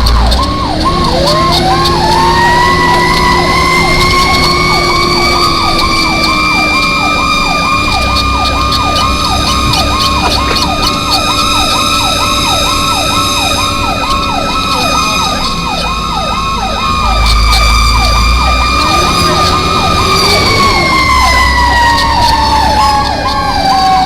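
Fire engine sirens. An electronic siren runs on a rapid yelp, about three cycles a second. A second siren winds up to a high, steady wail about half a second in, holds, and winds down near the end.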